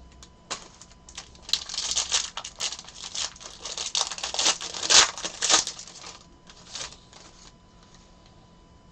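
Trading-card pack wrappers crinkling and tearing as packs are opened and handled, a dense crackly rustle from about a second and a half in, loudest around five seconds, then dying down to a few clicks.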